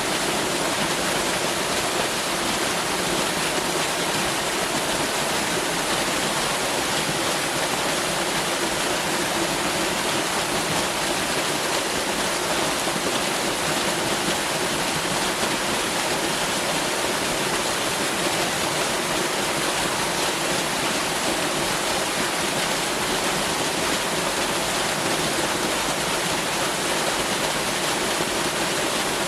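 Waterfall: a steady, unbroken rush of falling water, even across the whole range of pitch.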